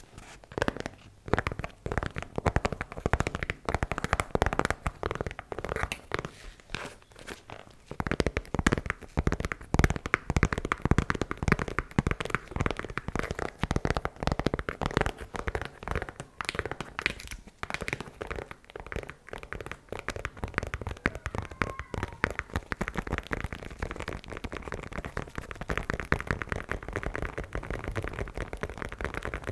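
ASMR tapping: fingers tapping rapidly on objects, a dense, continuous stream of small clicks and crinkly taps, lighter for a moment about seven seconds in.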